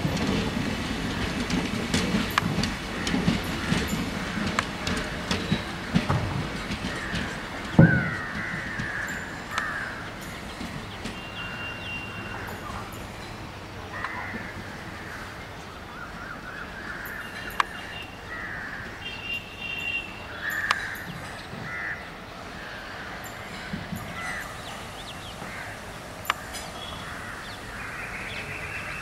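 The last coaches of an Indian Railways passenger train (ICF stock) roll past with a wheel rumble and clicking over the rail joints. This fades after a loud knock about eight seconds in. Crows caw over and over, louder than the fading train in the later part.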